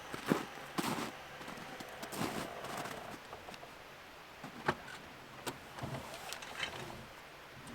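A series of irregular sharp clicks and knocks with some rustling. The loudest knock comes just after the start and another comes about halfway through.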